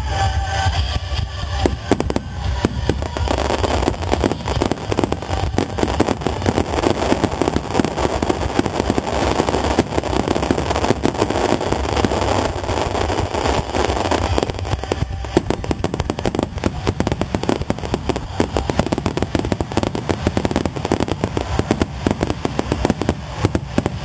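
Large aerial fireworks display exploding in a dense barrage: rapid, overlapping bangs and crackle that thicken a couple of seconds in.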